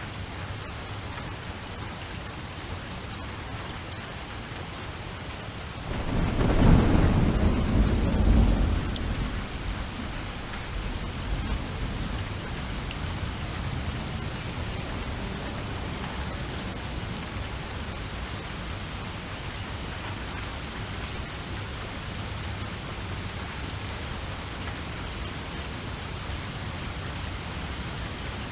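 Steady rain falling, with a roll of thunder starting about six seconds in. The rumble is loudest for a few seconds, then fades back into the rain.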